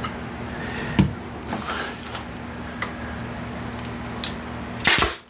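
A nail gun fires once near the end, a loud sharp shot. Before it come light knocks and taps of wood pieces being handled over a steady low shop hum.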